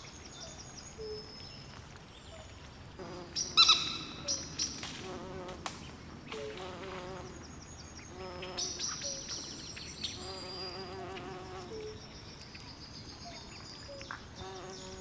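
Swamp night chorus of frogs and insects: repeated short high chirps, with wavering trilled calls low down. A single loud, harsh call stands out about three and a half seconds in.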